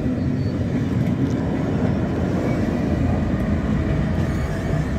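SBB double-deck passenger train with a red Re 460 electric locomotive passing close by, with a steady rumble of wheels on the rails.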